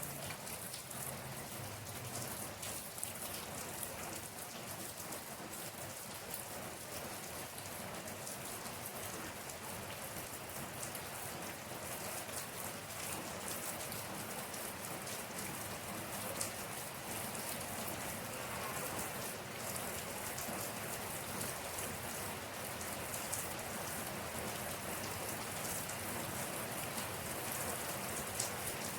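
Steady rain falling on a surface, with many small drop ticks over an even hiss.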